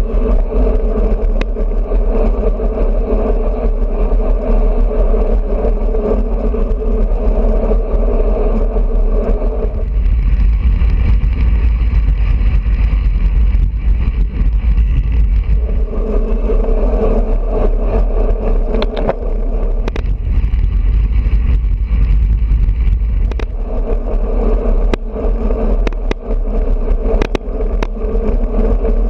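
Wind buffeting a GoPro's microphone and road rumble from a road bicycle riding at speed, with a droning hum that drops away about a third of the way in and comes back twice, and a few sharp clicks in the second half.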